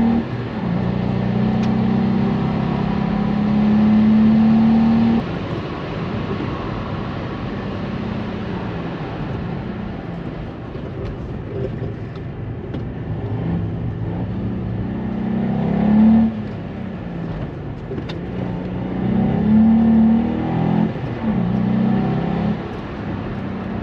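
Volkswagen up! GTI's turbocharged three-cylinder engine pulling hard several times, its note rising and breaking off sharply each time, with a stretch of lighter, even running in the middle, about 6 to 13 seconds in.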